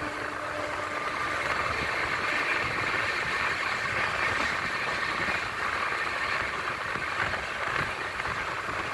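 Express passenger train running through a station at speed without stopping: a steady rushing rumble of wheels on rail.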